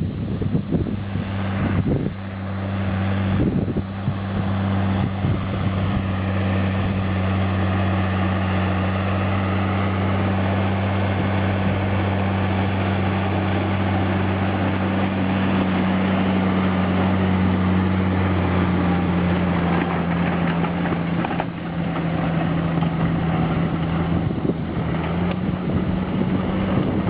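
Fendt 816 tractor's diesel engine running steadily with an even pitch, which sags a little about two thirds of the way in and comes back up near the end.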